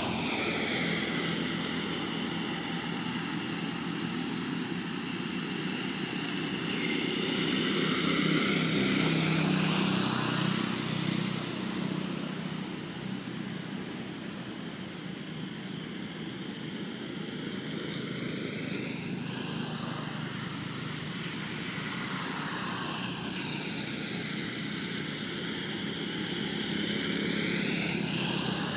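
Engine noise of something motorised passing by, swelling and fading twice: loudest about eight to ten seconds in, then building again near the end.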